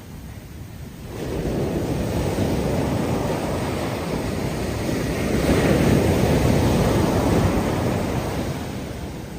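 Ocean surf breaking and washing up the beach, with wind buffeting the microphone. The rush swells about a second in, is loudest a little past the middle, and eases off near the end.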